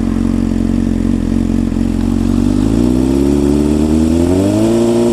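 Honda CBR600F inline-four engine through a Black Widow silencer with its baffle removed, idling steadily, then revved smoothly up from about two and a half seconds in and held at a higher speed of around 3,000 rpm near the end.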